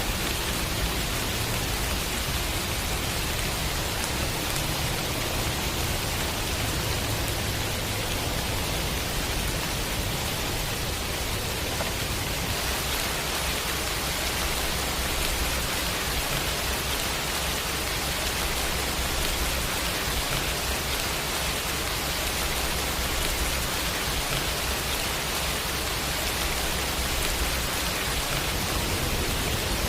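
Steady rain mixed with a noise-like hiss, even and unbroken, with a low rumble underneath that shifts a little about halfway through.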